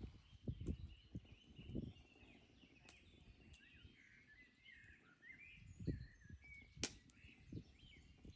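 Birds chirping faintly outdoors, many short rising and falling notes one after another, with several soft low thuds scattered through, louder than the birds, and a couple of sharp clicks.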